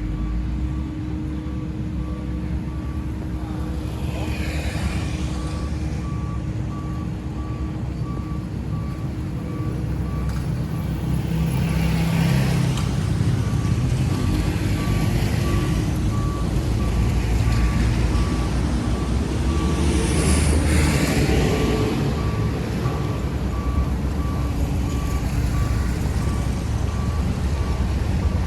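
Heavy diesel construction machinery running with a steady low rumble, louder in the second half, while a reversing alarm beeps evenly from about a third of the way in.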